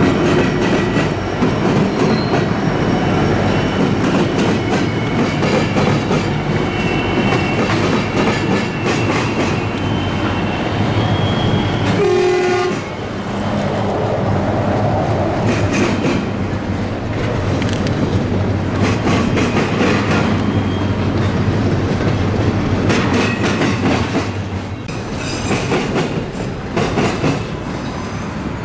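A train rolling past close by, its wheels clicking and clattering over the rail joints.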